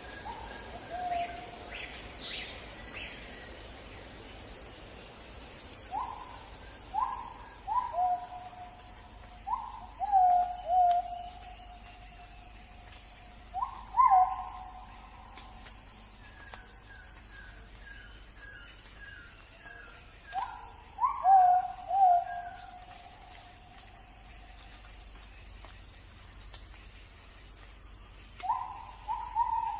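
A steady, high-pitched chorus of crickets or similar insects, over which a bird repeatedly gives short calls that drop in pitch, some coming in quick pairs. About halfway through, a fainter series of rapid short notes is also heard.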